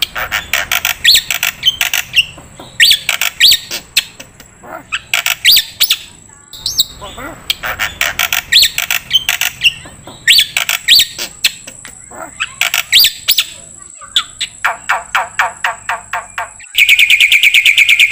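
Recorded songbird chirps and whistles in short bursts about every second, with a steady thin high tone underneath. Near the end, a fast, even trill starts.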